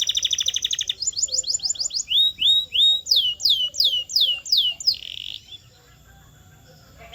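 Canary singing: a fast trill runs into a series of quick rising notes, then a run of falling notes, and the phrase ends with a short burst about five seconds in.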